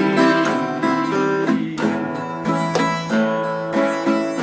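Acoustic guitar played fingerstyle in the key of C, picked notes between sung lines of a country song.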